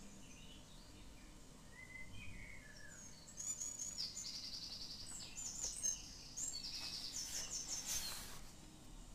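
Small songbirds singing: short curving chirps at first, then fast trilled phrases of rapidly repeated high notes from about three seconds in. Near the end there is a brief rustle of a paper page being turned.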